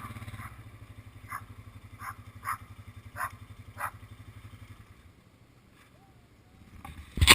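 ATV engine idling with a steady pulsing rumble that dies away about five seconds in. A dog barks five times over it.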